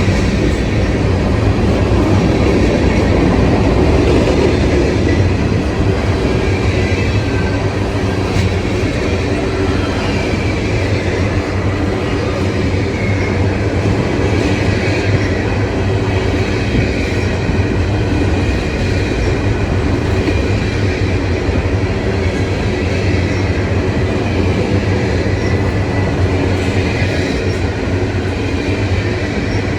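A train's cars rolling steadily past, the wheels rumbling and clicking on the rails, with a faint high squeal of wheel on rail.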